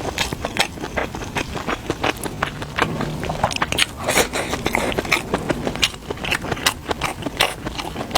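Close-up eating sounds: a person biting and chewing food, with irregular crunchy clicks coming several times a second.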